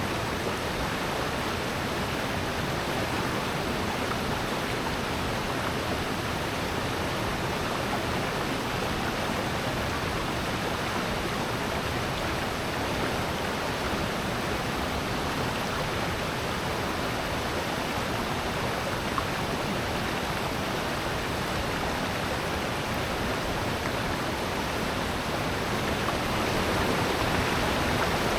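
A mountain stream rushing steadily over rocks in a valley, a dense even wash of water noise that grows a little louder near the end.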